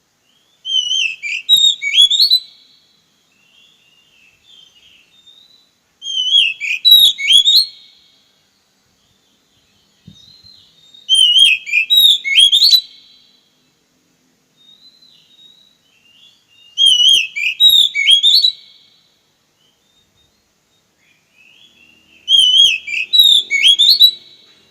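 A songbird singing the same short, loud whistled phrase five times, about every five and a half seconds, with faint soft notes between the phrases.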